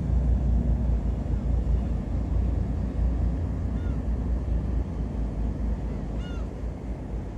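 Low rumble of a ship's engine mixed with wind buffeting the microphone, slowly fading toward the end. Two short high calls about four and six seconds in.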